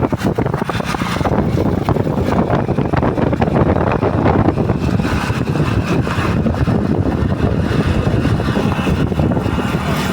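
Motorcycle engine running under way, with steady wind rushing over the microphone.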